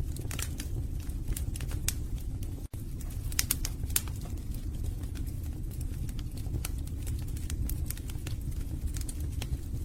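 Wood fire burning in a fireplace: irregular sharp crackles and pops from the logs over a steady low rush of flame, with a split-second dropout about a quarter of the way in.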